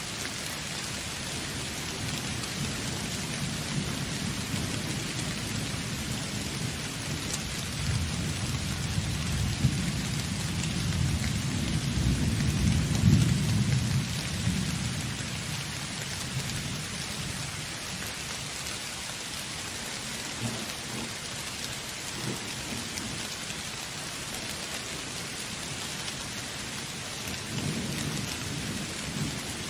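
Steady heavy rain on surfaces, with a long roll of thunder that swells to a peak about halfway through and fades away, and a shorter low rumble near the end.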